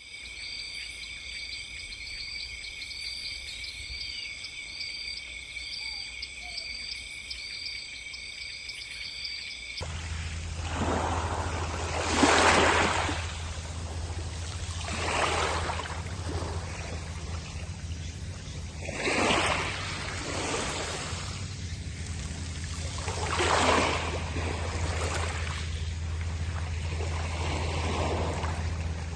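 Insects chirping in steady high trills for about ten seconds. Then a sudden change to a steady rushing noise over a low hum, which swells loudly four times, with no distinct crackles.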